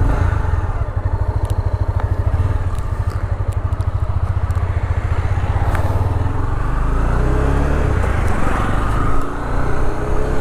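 Honda CB300F's single-cylinder engine running at idle with a steady, even low thud, a sharp click about six seconds in, then the engine note rising as the motorcycle pulls away near the end.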